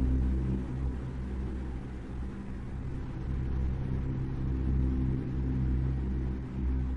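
A low, steady rumbling drone made of several sustained deep tones, swelling and easing slightly.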